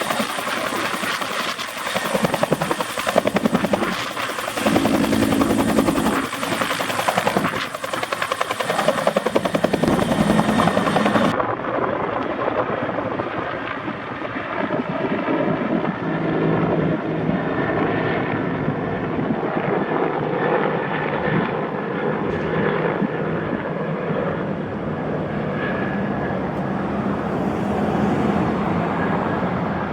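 Bell 212 helicopter running at flight power: the fast chop of its two-blade main rotor over the whine of its PT6T twin turboshaft engines. About eleven seconds in, the highest part of the sound cuts off suddenly. From then on the rotor and turbine sound is duller, with steadier whining tones.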